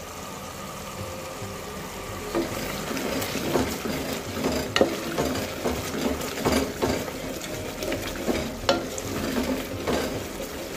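Mutton and onion masala sizzling as it is fried dry in a pot, its cooking water already boiled off, with a spoon stirring through it. The spoon knocks and scrapes against the pot every second or two, starting about two seconds in, as the frying gets louder.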